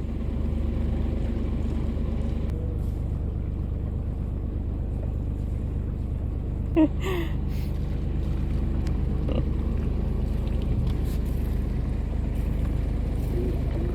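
Westerly Berwick sailboat's inboard diesel engine running steadily at low revs while motoring astern, a steady low hum. A brief voice sounds about seven seconds in.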